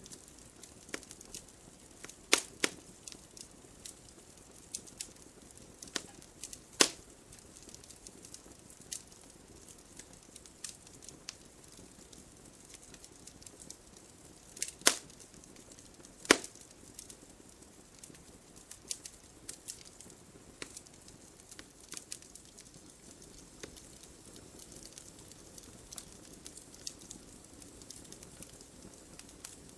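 Wood fire burning in a fireplace: logs crackling with irregular small snaps and pops over a faint steady hiss, a few louder pops standing out.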